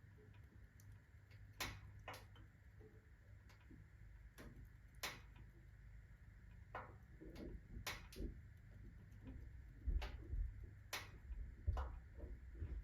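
Iron body of a wood-burning fireplace stove ticking and clicking as it expands with the rapid heat from freshly added kindling: sharp, irregular ticks, about one a second, over a low rumble that strengthens near the end.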